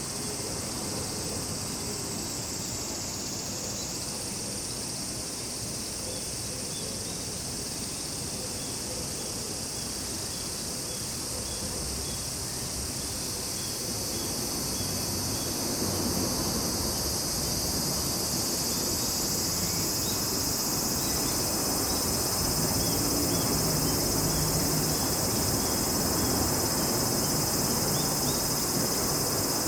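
Summer insect chorus of cicadas and crickets: a dense, steady high-pitched drone that swells louder about halfway through, with faint short chirps repeating evenly beneath it.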